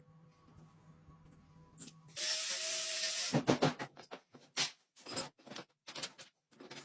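Lathe machining: a faint steady hum, then about two seconds in a loud hiss lasting about a second, followed by a run of short scraping bursts as the cutter works the metal.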